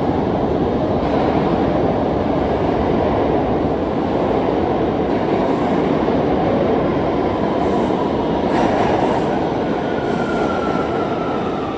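New York City subway train running, a steady loud rumble of wheels on rail, with a faint high wheel squeal setting in near the end.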